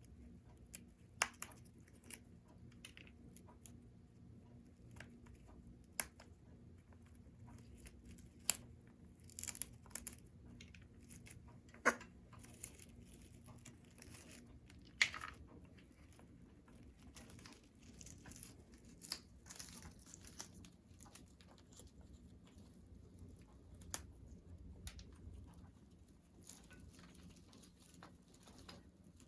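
Congo African grey parrot chewing and tearing at a chew toy: faint, irregular clicks and crackles with a few sharper snaps.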